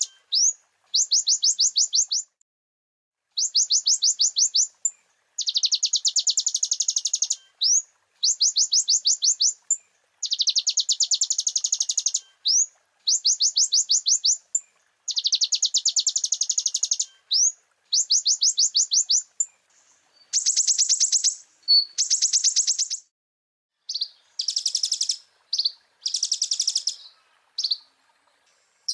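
Kolibri ninja sunbird (konin) singing in loud, high, very rapid trills, phrase after phrase of about two seconds with short gaps and a quick rising note between them; the last few seconds break into shorter, choppier phrases.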